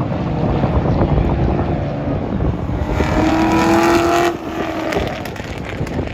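A race car's engine at high revs goes by on track, its note strongest for about a second and a half past the middle before dropping away abruptly, over steady wind noise on the microphone.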